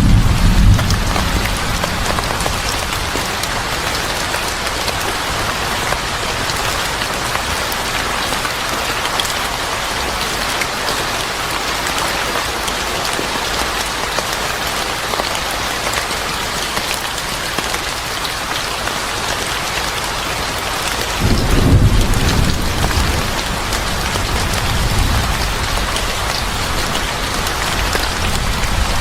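Steady rain falling, with a low rumble of thunder at the very start and another rolling in about three-quarters of the way through, fading over a few seconds.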